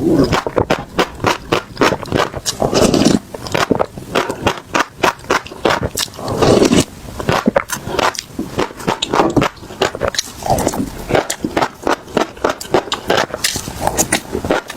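Close-miked chewing of crunchy seeds: rapid, irregular crisp crunches and cracks, with a few fuller, lower mouth sounds between bites.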